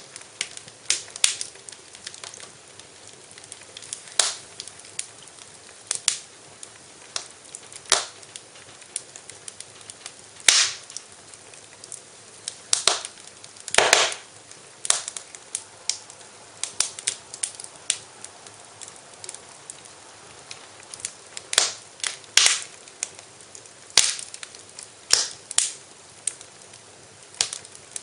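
Wood fire in a fireplace crackling, with irregular sharp pops over a faint steady hiss; the loudest pops come about ten and fourteen seconds in.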